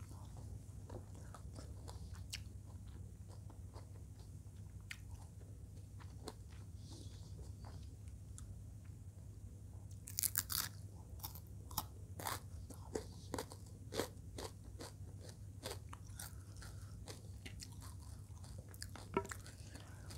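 Close-miked eating sounds: soft chewing and mouth clicks, then about halfway a run of loud crunches as crispy fried eel in balado chili sauce is bitten and chewed, with a few more crunches near the end.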